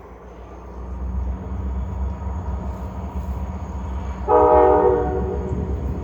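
Great Lakes Central diesel locomotive rumbling as it draws near, growing louder, then sounding one short blast of its multi-note horn about four seconds in.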